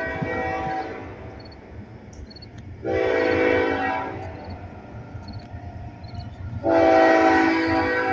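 Locomotive air horn sounding in blasts: one trails off about a second in, a short one comes about three seconds in, and a longer, louder one starts near seven seconds in, under a low steady rumble of the approaching train.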